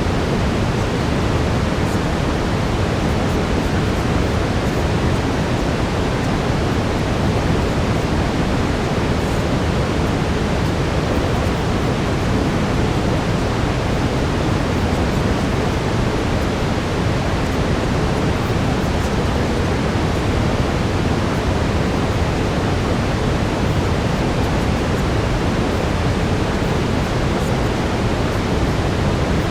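Steady brown noise, a deep even rushing hiss with most of its weight in the low end and no change over time.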